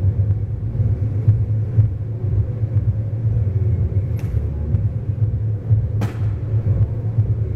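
Double-stack intermodal freight train rolling past, a steady low rumble muffled through window glass, with two sharp clicks about four and six seconds in.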